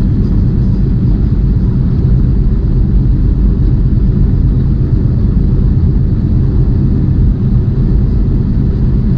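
Steady low rumble inside a semi-truck's cab while driving: engine drone and road noise, even throughout.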